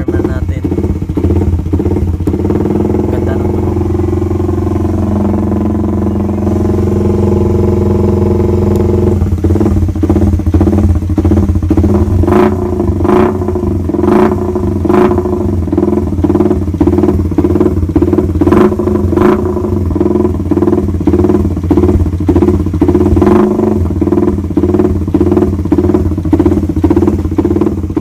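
Euro Vperman 150 motorcycle engine idling through an aftermarket high-speed muffler, a loud, steady rumble; from about nine seconds in it settles into a regular throbbing beat with sharp cracks in it.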